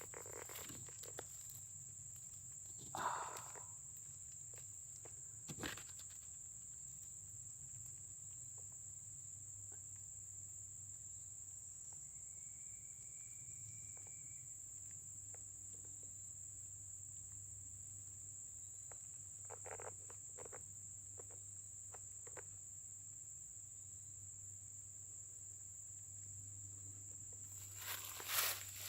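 Steady high-pitched insect drone, like crickets or katydids, with a few faint rustles.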